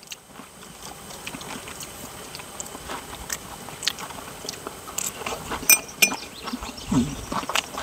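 Chewing on crisp fried fish: scattered faint crunches and clicks.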